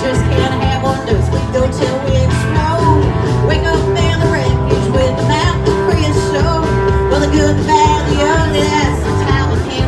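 Band playing a country-rock song in an instrumental passage after the sung chorus, with a steady beat.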